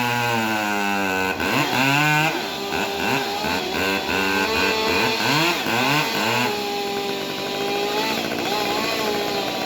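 Two-stroke chainsaw engine running, its pitch rising and falling in quick repeated revs through the middle, then holding steadier toward the end.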